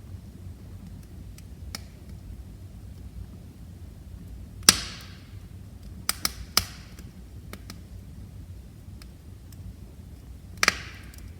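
Wood fire burning in a fireplace: a low steady rumble with scattered crackles, one loud pop near the middle, a quick run of three sharp snaps soon after, and another pop near the end.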